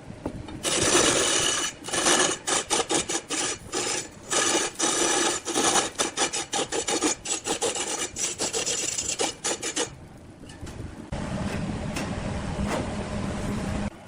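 A tool rasping against wood in repeated strokes, some long and some short and quick. After a short pause, a steady rubbing noise with a low hum runs until it cuts off suddenly near the end.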